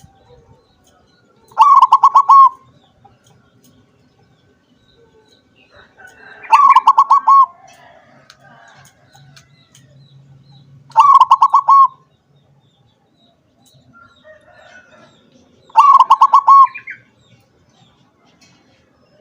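Zebra dove (perkutut) singing: four song phrases, each a quick run of cooing notes, repeated about every four to five seconds.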